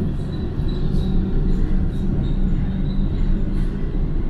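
SkyConnect airport people-mover train running, heard from inside the car: a steady low rumble with a hum, and a faint high whine over it.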